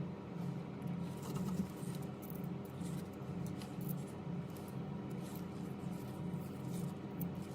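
Faint scattered clicks and light scratches of small repair tools handling a phone, over a steady low hum.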